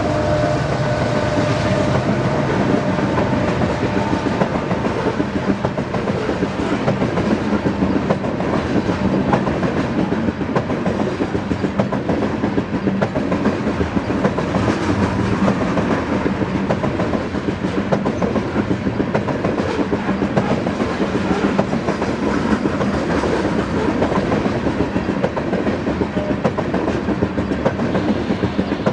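Freight train of coal cars rolling past at speed, a steady rumble with the wheels clicking over the rail joints. In the first couple of seconds a whine from the last locomotive fades out.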